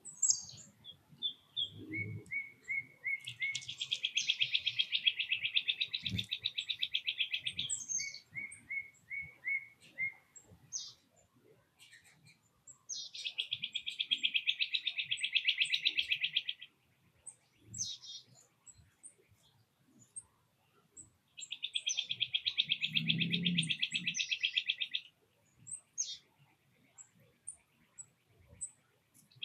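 A songbird singing a rapid, even trill three times, each lasting about three to five seconds, with short runs of quick notes and high thin chips between the trills.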